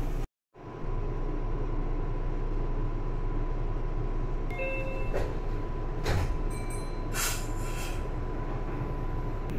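A Meitetsu commuter train stands at the platform with its doors open, humming steadily. About four and a half seconds in there are short electronic tones. Then, between about six and eight seconds in, the doors slide shut with a hiss of air and a couple of knocks.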